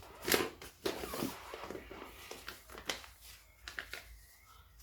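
A sheet of paper rustling and being creased by hand as it is folded, in a series of short crackles and taps.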